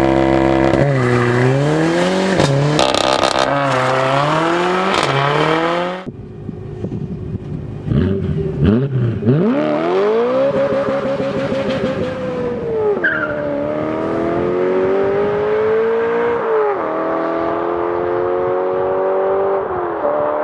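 BMW E92 M3's 4.0-litre V8 through a custom exhaust. The revs swing up and down for several seconds, then after a few quick blips the car accelerates hard. The engine pitch climbs and drops three times as the manual gearbox is shifted up.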